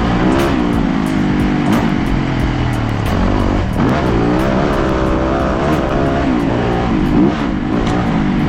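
Dirt bike engine running hard on a trail, its pitch rising and falling again and again as the throttle is opened and closed, with short sharp clicks and knocks scattered through it.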